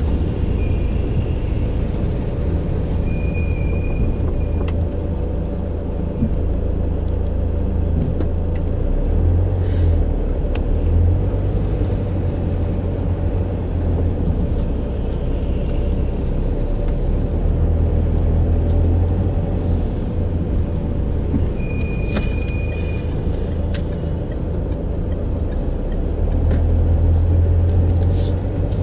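Steady low rumble with a constant hum, like a vehicle running, swelling now and then, with a few scattered clicks and two short high squeaks, one near the start and one about two-thirds through.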